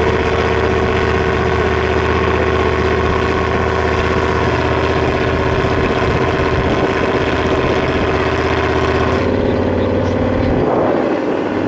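Off-road competition vehicle's engine running at a steady speed, its pitch shifting about nine seconds in and again near the end.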